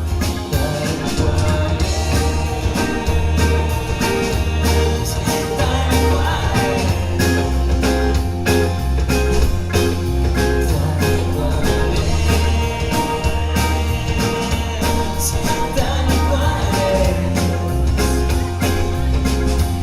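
Live rock band playing an instrumental passage of a song, with a steady drum beat and a bass line under the guitars and keys.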